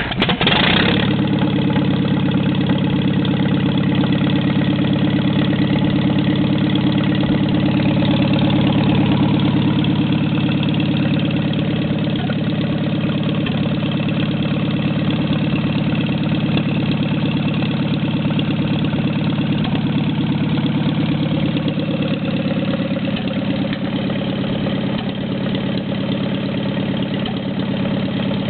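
1948 Farmall M's four-cylinder engine idling steadily just after start-up, running with no muffler on the exhaust.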